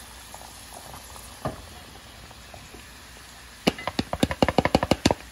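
Chopped tomatoes frying with a low, steady sizzle in the pot as diced zucchini is poured in from a bowl. Near the end, a quick run of about a dozen sharp taps.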